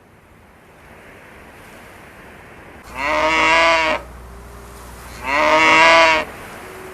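Cattle mooing: two calls of about a second each, the second starting about a second and a half after the first ends.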